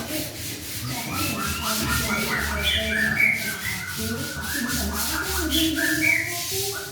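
Rubbing or scraping strokes repeating steadily, with short whistled notes over them.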